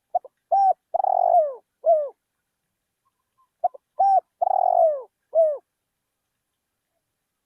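Spotted dove cooing in two matching phrases about three and a half seconds apart. Each phrase is a couple of short notes, a longer coo and a last coo that falls in pitch.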